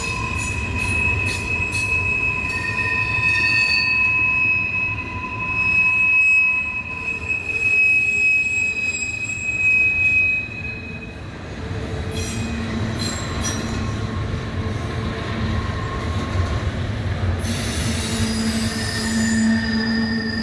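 Steel wheels of a miniature live-steam train squealing against the rails as it rolls, over a steady rumble of the wheels on the track. The high squeal gives way about halfway through to a lower-pitched squeal.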